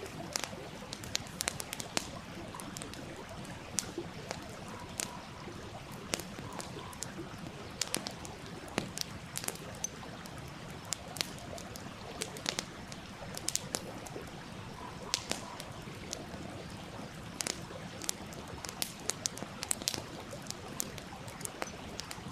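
Wood campfire crackling, with irregular sharp pops several times a second, over the steady rush of a flowing stream.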